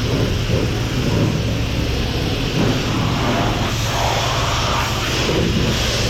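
Steady hiss of a car wash's high-pressure spray wand jetting water, over the steady hum of its pump.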